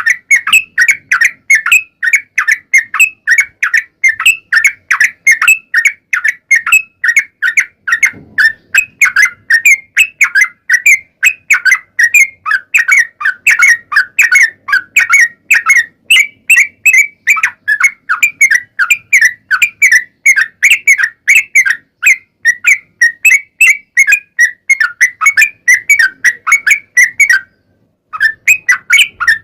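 Yellow-vented bulbul (trucukan) song: a long, unbroken run of quick, chattering whistled notes at about four a second. The run stops briefly about two seconds before the end, then picks up again.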